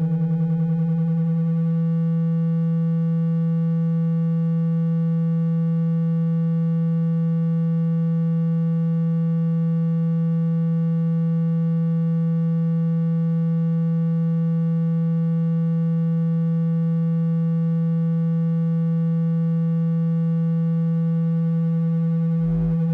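Steady low electronic tone, a water-ejection tone meant to vibrate a wet phone speaker and push the water out. Its upper overtones thin out in the first couple of seconds, and it changes briefly just before the end.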